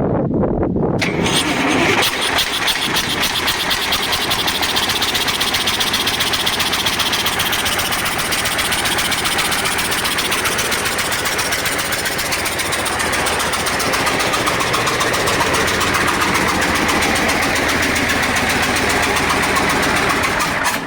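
KamAZ 740-series V8 diesel engine running, harsher from about a second in, then cutting off suddenly near the end. It has a knock that the owner suspects comes from a valve seat that has come loose, perhaps with a cracked cylinder head letting exhaust gas into the coolant.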